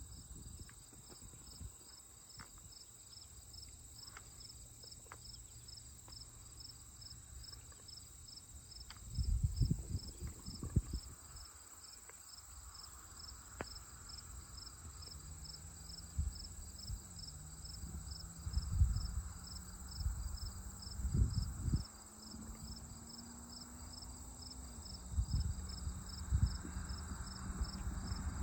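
Crickets chirping in a steady, evenly pulsing trill, about two pulses a second. Low rumbles on the microphone break in several times, from about ten seconds in.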